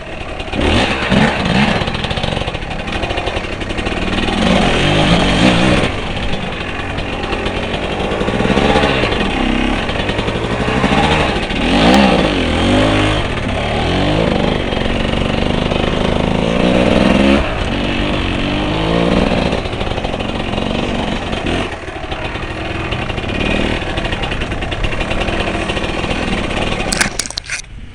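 Motorcycle engine revving up and down again and again, its pitch rising and falling over and over, then cutting off suddenly just before the end.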